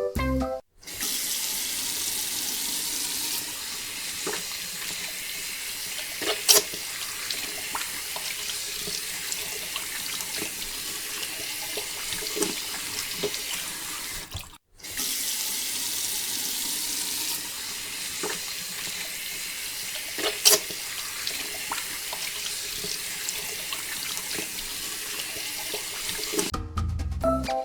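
Water running in a steady splashing stream, with a few sharp clicks; it cuts out for a moment midway and starts again.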